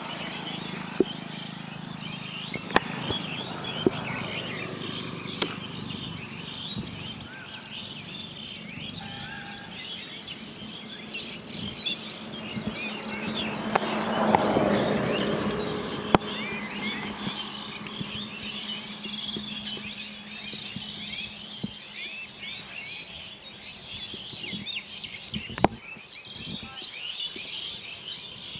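Small birds chirping continually over outdoor background noise, with a few sharp clicks scattered through and a brief louder swell of noise about halfway through.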